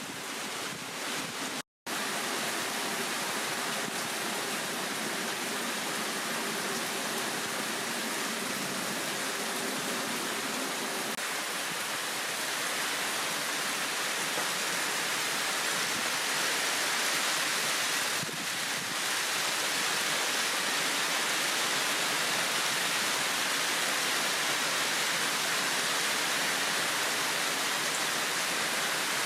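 Heavy rain pouring down steadily, a dense even hiss. It cuts out for an instant about two seconds in.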